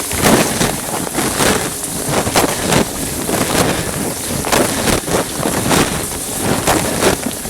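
Dishwasher wash cycle heard from inside the machine through a plastic bag: water jets spraying loudly, with irregular splashes hitting the bag about every half second.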